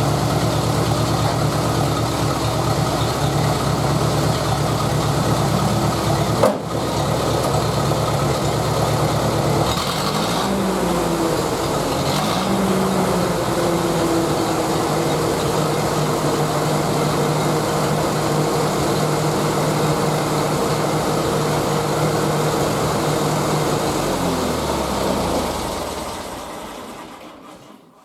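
1953 Ferguson TED-20's four-cylinder engine, running on petrol after its TVO run, ticking over steadily. Its note shifts about ten seconds in, and near the end it slows and stops as it is shut off. The owner says the engine needs a bit of work.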